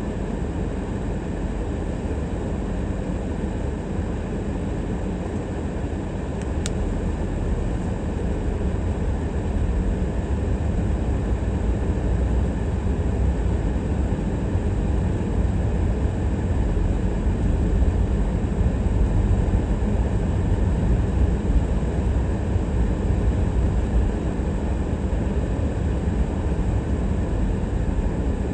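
Car driving along city streets: a steady low rumble of road and engine noise that grows a little louder about a third of the way in.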